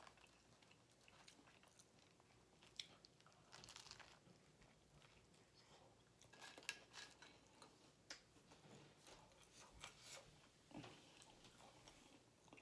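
Faint close-up chewing and biting of a cheesesteak sub on a toasted roll: wet mouth clicks and small crunches scattered through, in a couple of busier clusters.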